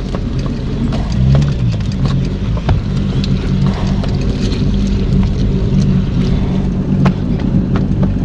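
An engine idling steadily with a constant low hum, with scattered sharp clicks and crackles over it.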